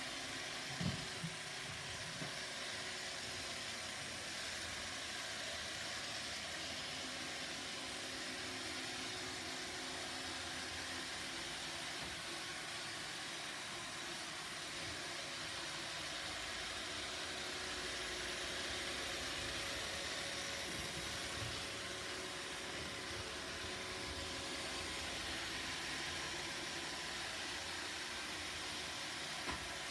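Roomba robot vacuum running: a steady whirring hiss with a faint hum, and a few light knocks about a second in and again near the end.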